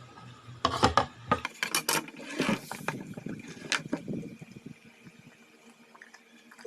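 Several sharp knocks and clicks with rubbing and rustling in the first four seconds or so, then quiet with a faint steady hum.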